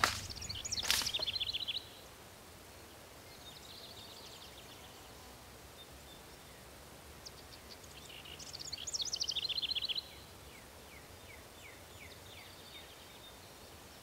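A songbird singing: two loud phrases of quick high notes, each ending in a fast trill, one at the start and one about seven seconds in, with a fainter phrase between and a string of short falling notes near the end. A single sharp knock sounds right at the start.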